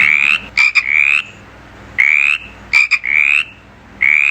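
Frog croaking: short calls that rise in pitch, given in quick clusters with brief pauses between them.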